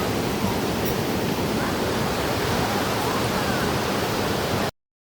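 Steady rushing of a waterfall and its stream, a dense, even wash of water noise. It cuts off abruptly just before the end.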